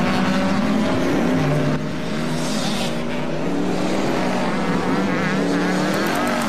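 Engine-like buzzing that rises and falls in pitch, with more than one tone overlapping, like small motors revving: the motor-style flight sound that this cartoon gives its insects.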